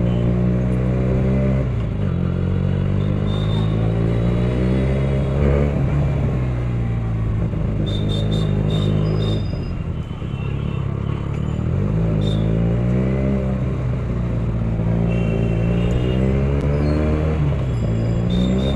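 Benelli TNT 300's parallel-twin engine pulling hard through the gears, its pitch climbing and then dropping at each upshift, with a brief ease-off about ten seconds in.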